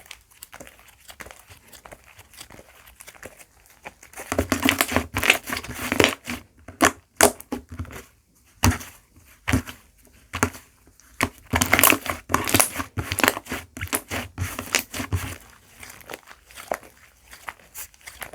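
Fluffy slime squished, stretched and folded by hand, its trapped air bubbles crackling and popping. Soft for the first few seconds, then dense and loud from about four seconds in until near the end.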